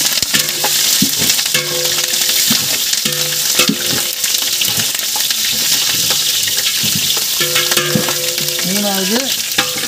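Whole spices, green chillies and bay leaves sizzling in hot oil and ghee in a large metal pot, stirred with a long ladle that knocks and scrapes against the pot now and then.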